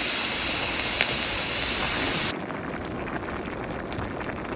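A loud, steady rushing hiss like running water or rain that cuts off abruptly about two seconds in, giving way to a quieter, faintly crackling hiss.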